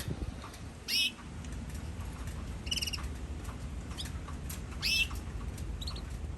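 Canaries giving a few short, high chirps, spaced out about a second, three seconds and five seconds in, rather than a full song, over a low steady background rumble with faint scattered ticks.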